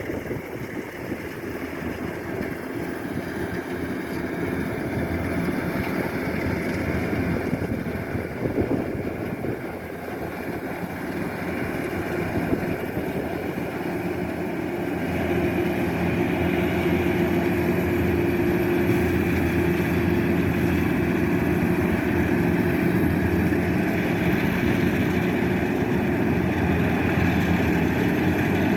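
Kubota DC-105X combine harvester's diesel engine running steadily, growing louder about halfway through as a steady hum comes in.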